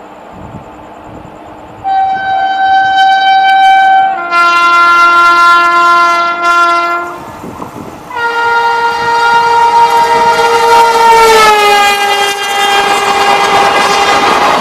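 Indian Railways electric locomotive horn sounding three long blasts as a train approaches, the last blast dropping in pitch as the locomotive passes. The rumble and clickety-clack of the passing coaches rises under it near the end.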